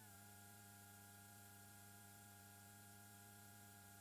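Near silence: a faint steady electrical hum and whine with light hiss on the headset intercom line, with no engine or rotor sound heard.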